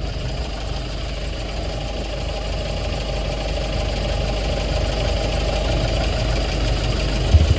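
Hyundai Porter II truck engine idling steadily at running temperature. Two short low thumps near the end.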